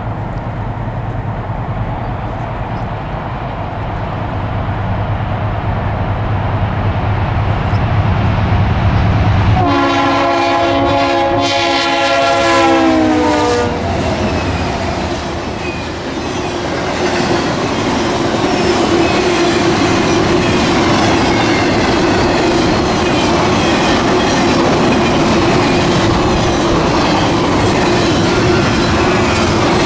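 Norfolk Southern freight train passing: the diesel locomotives rumble as they approach, then sound the horn for about four seconds starting ten seconds in, its pitch dropping as they go by. The intermodal cars then roll past with wheels clicking over the rail joints and a steady hum from the wheels.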